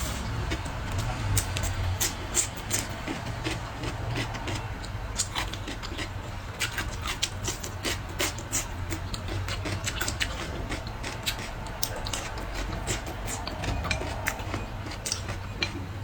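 Close-miked eating sounds: irregular wet chewing and mouth-smacking clicks, several a second, over a steady low hum.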